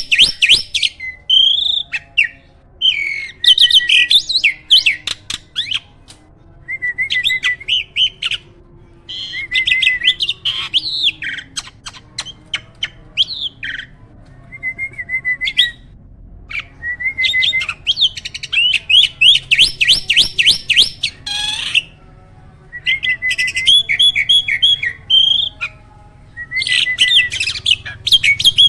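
Hybrid jalak (captive starling) singing in repeated bursts of rapid, chattering notes, with short pauses between the bursts.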